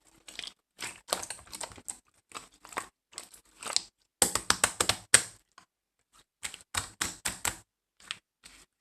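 Gold pearl slime being squished and pressed by hand, giving clusters of quick clicking and popping crackles as air pockets burst, with a short pause about two-thirds of the way through.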